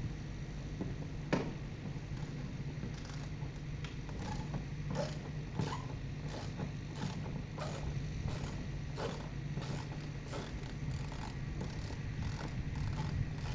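Irregular mechanical clicks and clanks, like tools and metal parts being handled, over a steady low hum.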